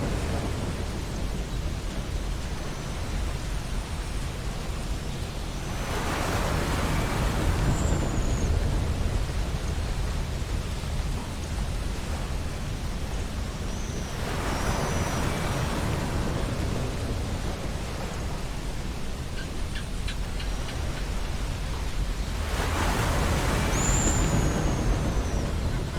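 Ocean waves washing onto a beach, swelling about every eight seconds over a steady low rumble and surf hiss. Three short, high, falling bird calls come in over the surf.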